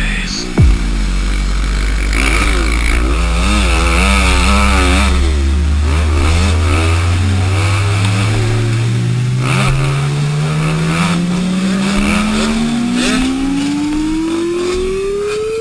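Honda CRF250's single-cylinder four-stroke engine revving up and down quickly and repeatedly as the dirt bike rides the track, heard close through a helmet camera, with a sharp knock just under a second in. From about halfway, a separate low tone climbs slowly and steadily in pitch.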